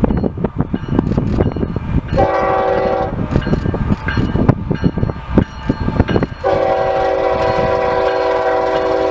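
CN diesel freight locomotive's multi-chime air horn: a short blast about two seconds in, then a long blast from about six and a half seconds on. Heavy wind buffets the microphone between the blasts.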